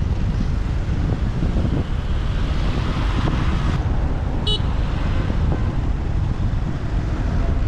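Motorbike riding in city traffic: steady low wind rumble on the microphone over engine and traffic noise. A hiss swells and then cuts off about four seconds in, and a short high beep follows about half a second later.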